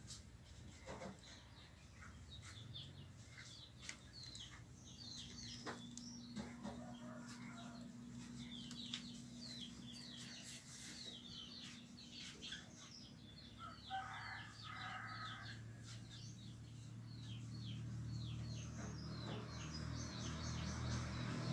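Birds chirping faintly: a rapid series of short, high chirps through the middle of the clip, with a brief lower call about two-thirds of the way in, over a faint steady low hum.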